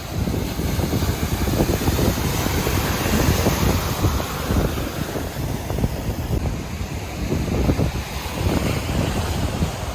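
Wind buffeting the microphone over the steady wash of surf, with uneven low gusts throughout.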